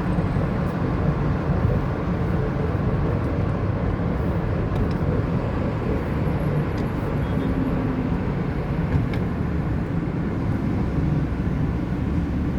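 Steady low rumble of a moving motor vehicle, road and engine noise at an even level.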